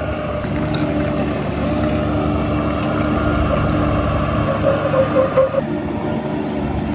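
Heavy diesel engine of earthmoving equipment running steadily, with a few louder surges and a higher tone coming in around five seconds in.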